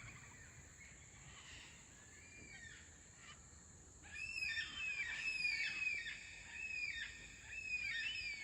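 A flock of black cockatoos calling, many repeated arching wails overlapping, faint at first and louder from about four seconds in. A steady high-pitched hum runs underneath.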